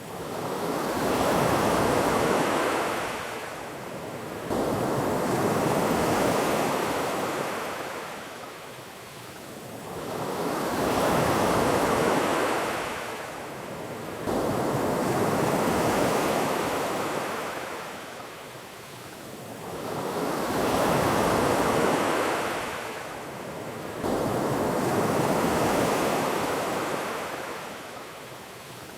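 Ocean waves washing onto a beach, rising and falling in slow, even swells about every five seconds.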